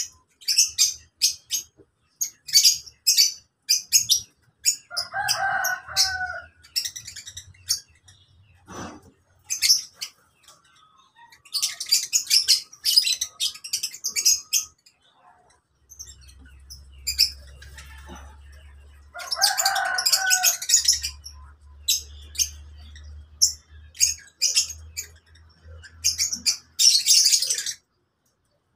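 Lovebirds chattering in a flock: rapid bursts of shrill, high chirps. Twice, a lower call lasting about a second stands out among them.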